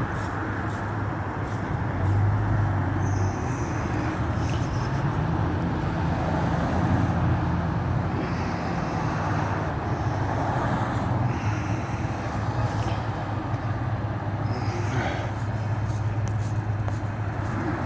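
Large truck engine idling steadily, a low even hum.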